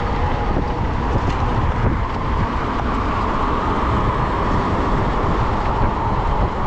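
Wind buffeting the microphone over the steady hum of a fat-tire e-bike's tires rolling along the road at speed.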